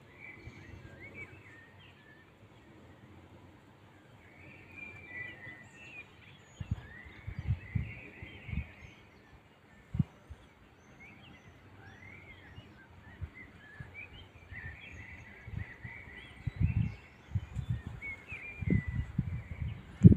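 Small birds chirping and calling in short, irregular phrases, with low bumps of wind on the microphone that grow stronger near the end.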